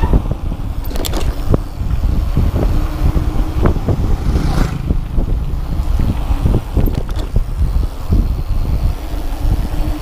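Wind buffeting the microphone of a mountain bike speeding downhill, with the bike rattling and knocking over rough ground.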